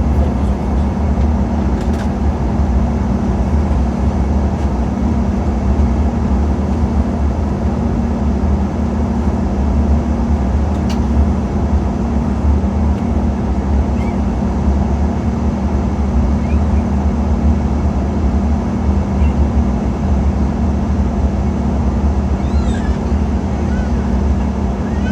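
Steady cabin noise of an Embraer E190 jet airliner in flight on approach: a continuous low engine and airflow drone with a steady hum.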